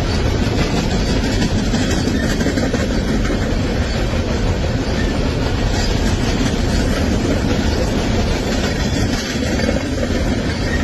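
Train running along the track: a steady, continuous rumble and rail noise with no pauses.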